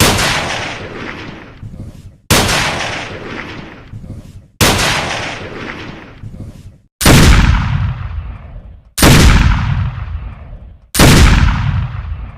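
Six single gunshots, one about every two seconds, each a sharp crack followed by a long echoing tail that fades out before the next. The last three are deeper and heavier than the first three.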